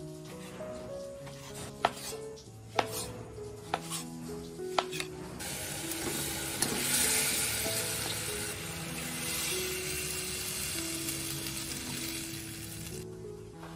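Four sharp clicks, then food sizzling and frying in a hot pan, starting about five seconds in and stopping shortly before the end. Gentle background music plays throughout.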